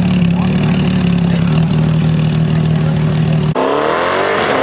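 A car engine running at a steady idle, then, about three and a half seconds in, an abrupt change to an engine revving, its pitch rising and falling.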